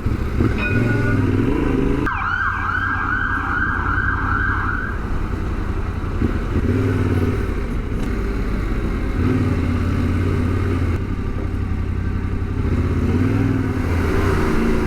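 Motorcycle engine and road noise running steadily through city traffic, its pitch shifting with the throttle. From about two seconds in, for about three seconds, an emergency vehicle's siren yelps in fast rising-and-falling sweeps, about two a second.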